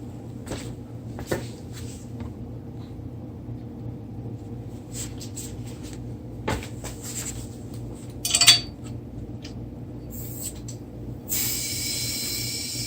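Scattered clicks and knocks of equipment being handled, with a louder clatter about eight seconds in; then, about eleven seconds in, a steady hiss of compressed air starts from an air compressor's hose at the scooter's tire valve as the underinflated tire is pumped up.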